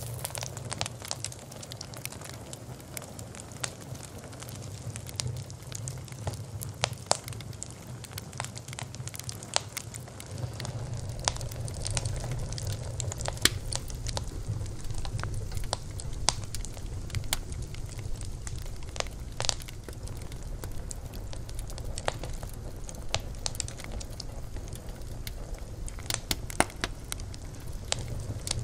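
Campfire burning: wood crackling and popping with irregular sharp snaps over a steady low rumble of the flames, which grows a little louder about ten seconds in.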